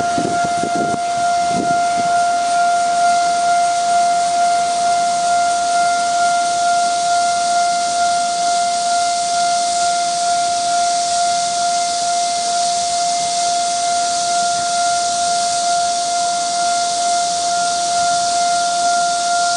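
Railway level-crossing warning alarm sounding: one steady, unbroken high tone over a constant hiss.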